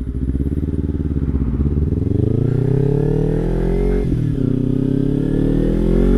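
Kawasaki Ninja 300's parallel-twin engine accelerating, its pitch climbing steadily. It dips briefly about four seconds in at an upshift, then climbs again.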